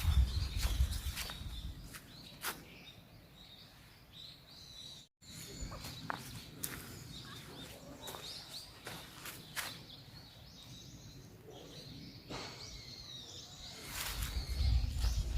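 Small birds chirping sporadically outdoors, with scattered clicks and a heavy low rumble near the start and again near the end. The sound drops out briefly about five seconds in.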